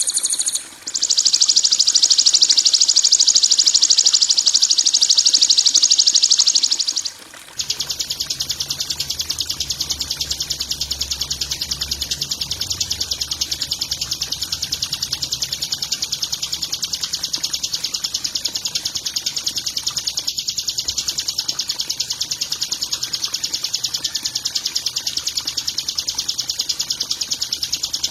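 Recorded songbird chirping for bird tutoring: a loud, very fast, continuous high-pitched trill. It breaks off briefly about a second in and again about seven seconds in, and a faint low hum runs under it after the second break.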